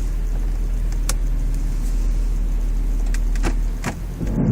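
Car running, heard from inside the cabin as a steady low hum, with a few sharp clicks and a louder knock near the end.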